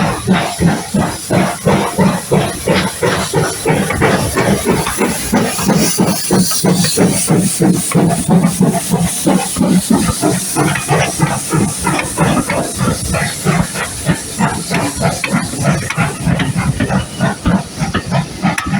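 Steam locomotive working, its exhaust chuffing in a quick, even rhythm over a steady hiss of steam.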